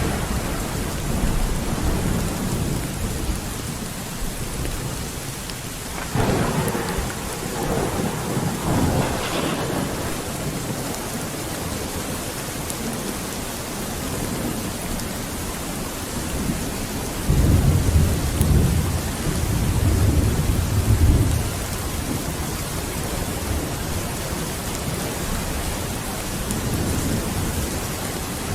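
Steady heavy rain with thunder: a rumble about six seconds in, and a louder, deep roll of thunder from about seventeen to twenty-one seconds.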